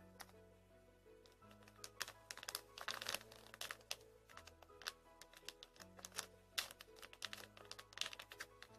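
Soft background music with slow, held bass notes, over many irregular short crinkly clicks and taps from squishy toys being handled.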